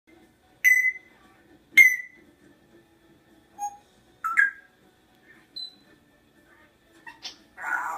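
African grey parrot giving a series of short, sharp, beep-like whistles: two loud ones about a second apart, then several quieter notes at different pitches, and a harsher, raspy call near the end.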